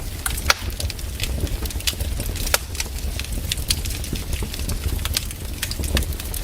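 Wood fire crackling, with irregular sharp pops over a low steady rumble of the flames; the loudest pops come about half a second and two and a half seconds in.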